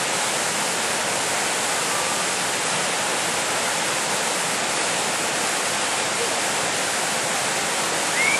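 Steady rush of falling water, an even hiss-like roar that holds at the same level throughout.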